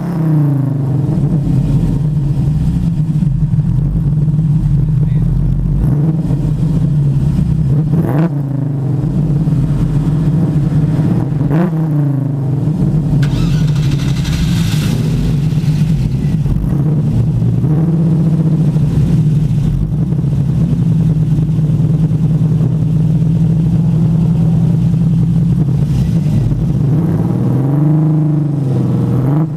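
TVR S3's Ford 2.9-litre V6 idling steadily, with a few short throttle blips, two of them close together near the end as the car pulls away.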